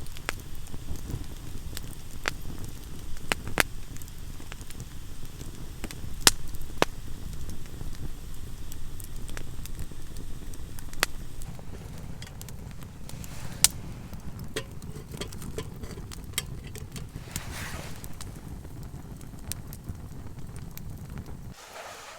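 Wood campfire burning, with scattered sharp pops and crackles over a steady low rumble.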